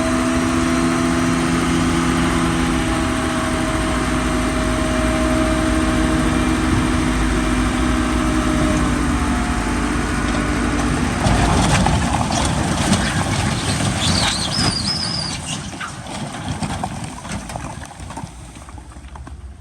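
Heavy diesel engine of earthmoving machinery running steadily, then from about halfway giving way to a noisier clanking rattle with a brief high squeal, fading out near the end.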